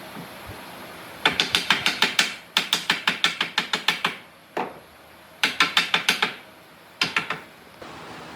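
A ratchet clicking in quick runs of about eight clicks a second, four runs with short pauses between, like a ratcheting tool or clamp being worked.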